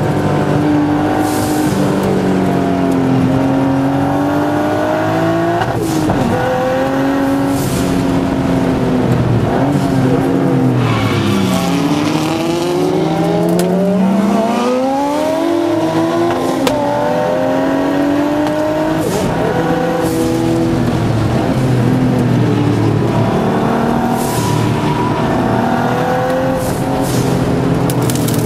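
Turbocharged Datsun 260Z's straight-six engine heard from inside the cabin at racing speed, the revs climbing through the gears and falling under braking, with a long drop and climb in pitch about halfway through.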